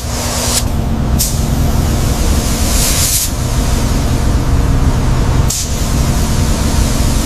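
A running vehicle: a steady low engine hum under loud, even rushing noise, with the hum shifting about half a second in and again near the end.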